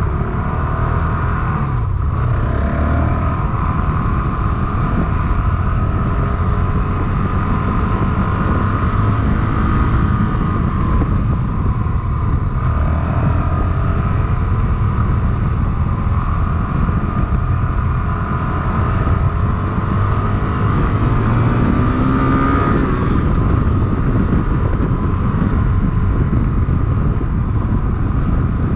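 Honda CRF450RL dirt bike's single-cylinder four-stroke engine running under way, the engine note rising and falling with the throttle.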